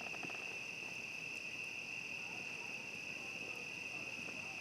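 Steady, continuous high-pitched trilling of a cricket chorus at night, unbroken throughout, with a few faint crackles right at the start.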